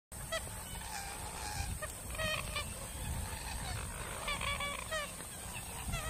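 A marsh bird giving short honking calls in several quick clusters, over a low rumble.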